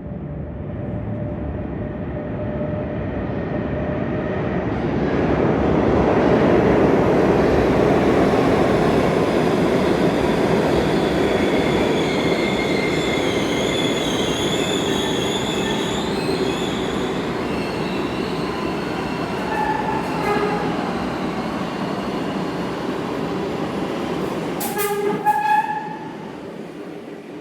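An R142A subway train runs past, growing louder over the first several seconds, with a steady rumble of wheels on rail. Through the middle a high, wavering squeal rides over the rumble. Near the end comes a short horn blast, and then the train sound falls away.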